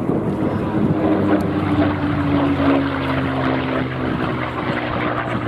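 Piston-engined propeller aircraft flying past, its engine running steadily, with the engine note dropping slightly in pitch partway through.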